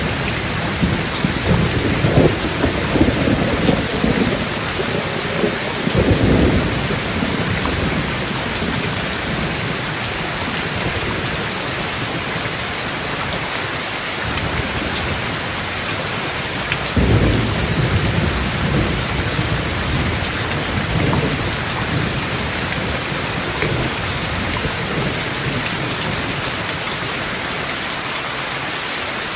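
Steady heavy rain with thunder rumbling twice: a long roll through the first several seconds, growing stronger about six seconds in, and another starting sharply just past halfway and fading over a few seconds.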